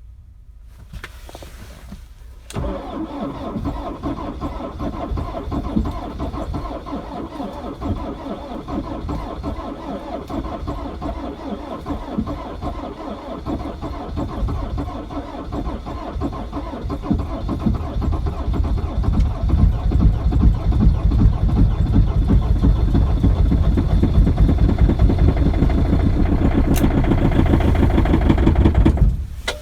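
Diesel engine cold-starting in deep frost: it fires up about two and a half seconds in and runs with a dense, rapid clatter. It grows louder about two-thirds of the way through, then stops abruptly near the end.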